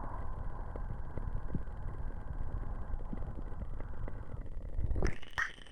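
Ears of a 3Dio binaural microphone being cupped and covered: a muffled low rumble with scattered soft crackles. About five seconds in, a brushing sweep sounds as the covering shifts on the ear.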